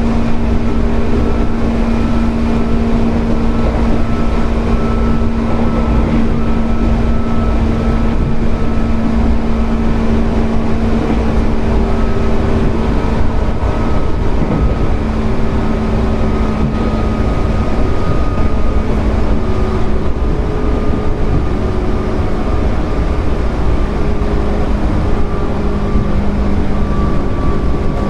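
JR 205 series 0-subseries electric train under way, its field-added-excitation-controlled DC traction motors and gearing giving a steady whine over the low rumble of wheels on rail. The whine sinks slightly in pitch in the second half.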